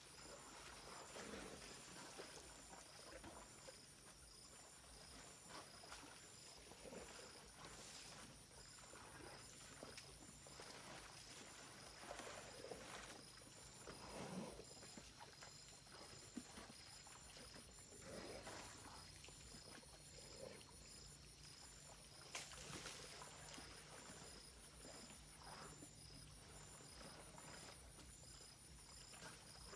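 Near silence with faint forest ambience: a steady, evenly pulsing insect chorus high in pitch, with scattered soft rustles and a couple of brief clicks.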